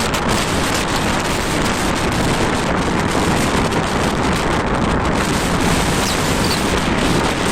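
Heavy wind blowing hard across the microphone: a loud, steady rushing with a deep rumble underneath.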